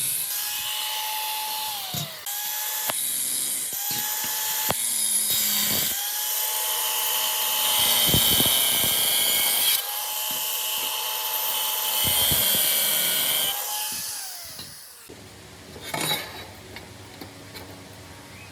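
A handheld power tool's motor running in a series of trigger bursts, each lasting from under a second to about four seconds. Its pitch falls away each time it is released, and a harsh hiss of the tool working the material runs over it. After the last burst, near the end, there are only light clatters.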